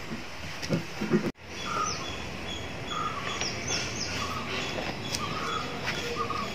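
Birds chirping in short, repeated calls with quick falling whistles over a steady background hum. A few soft low thumps come in the first second, and the sound cuts out for an instant just over a second in.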